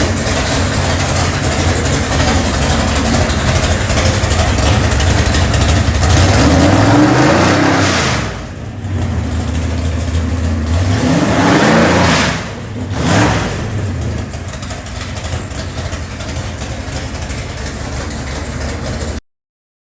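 632ci big-block Chevy V8 running loud. It is revved up and let back down twice, about six and eleven seconds in, with a short blip just after the second, then settles to a steady run until the sound cuts off suddenly near the end.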